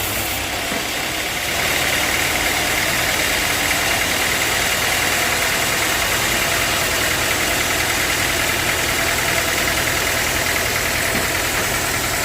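Sawmill machinery running steadily, a constant mechanical drone with a higher whine, stepping up in loudness about a second and a half in and then holding.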